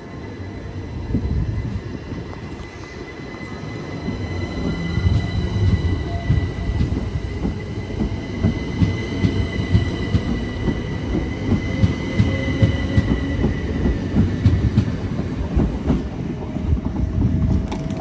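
A train running past on the rails: a low rumble with clattering wheel and rail-joint clicks that builds over the first few seconds, with steady high squealing tones from the wheels above it.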